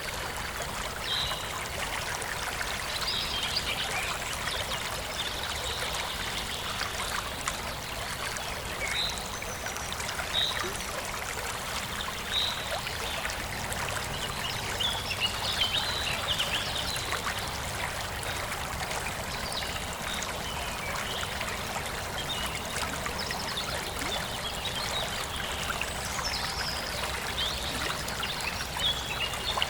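Small forest stream flowing and trickling steadily, with birds chirping in short calls scattered throughout.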